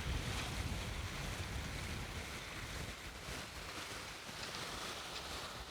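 Wind on the microphone over the steady wash of the sea, a low, even rumble.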